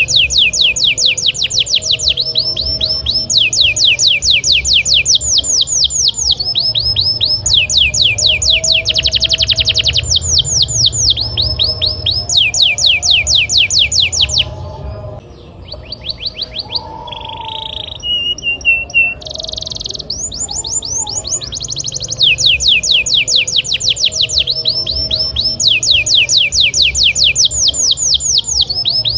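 Canary song: rapid trills of repeated downward-sweeping notes, switching from one run to the next. About halfway through, the song thins out briefly and includes a lower, steady trill before the fast runs return.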